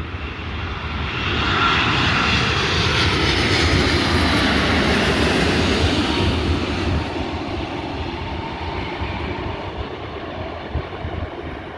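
Jet engines of a Boeing 787-9 Dreamliner passing on its landing approach: the sound swells about a second in, holds, then fades away with a faint whine that falls in pitch.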